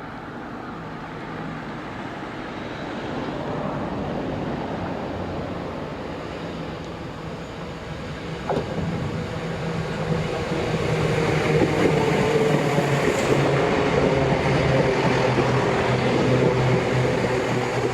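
Great Western Railway diesel multiple unit drawing into the platform and stopping, its diesel engines running with a low steady hum that grows louder through the second half. A single sharp click comes about eight and a half seconds in.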